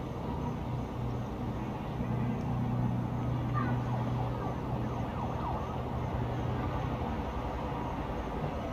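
Town ambience at night: a steady low rumble of distant traffic that swells in the middle and eases off toward the end. Faint short rising and falling glides sound over it.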